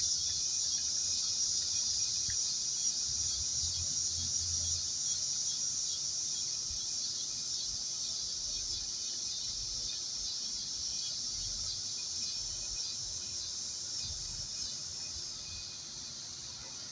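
Steady, high-pitched outdoor insect chorus, a continuous shrill chirring that fades slightly toward the end.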